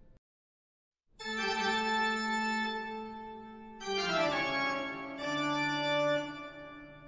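Organ music playing long held chords. It starts about a second in after a brief gap of dead silence, and the chord changes about four seconds in.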